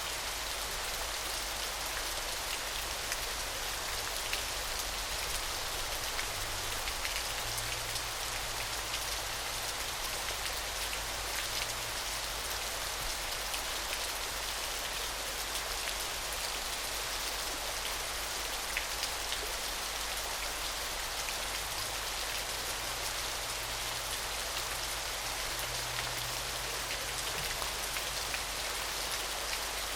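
Small, gentle waterfall splashing steadily: a continuous hiss of falling water flecked with fine pattering drops.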